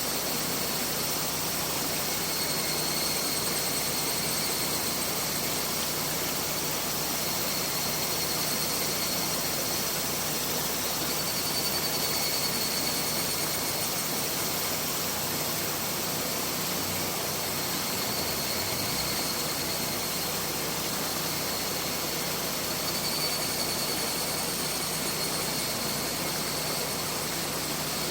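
Mountain river rushing steadily: a dense, even roar of flowing water.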